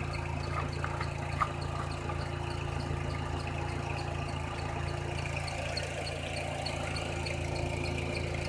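A 2002 Renault Scenic's 1.6 petrol four-cylinder engine idling steadily, with a faint regular tick about four times a second. There are a few small clicks about a second in.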